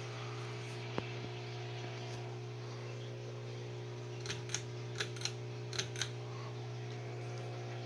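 1987 SMC Laguna 36-inch ceiling fan motor running with a steady electrical hum. A single sharp click about a second in, then six sharp clicks in pairs a little past the middle.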